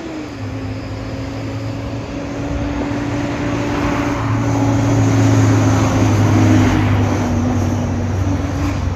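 International T444E V8 turbo diesel in a 2004 IC CE200 school bus running with its engine cooling fan engaged and roaring, a steady roar over the engine's hum that swells in the middle and eases a little near the end.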